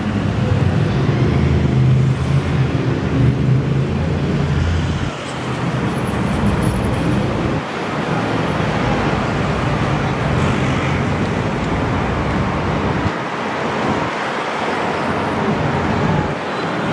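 A Singer DLS Porsche 911's air-cooled flat-six idles with a steady low drone. About five seconds in, the drone fades under street traffic noise.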